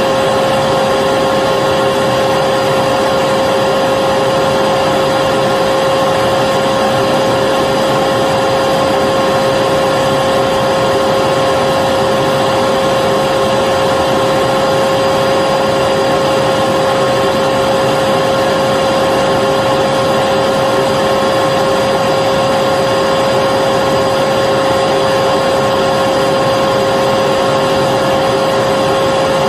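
Vacuum cleaner running steadily without a break: a constant motor whine over a rushing airflow noise, used as continuous sleep noise for a baby.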